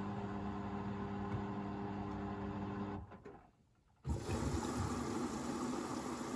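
Hoover VisionDynamic washing machine's drain pump humming steadily, then winding down about three seconds in. After a moment of near silence, water starts rushing in as the inlet valve opens to fill for the first rinse.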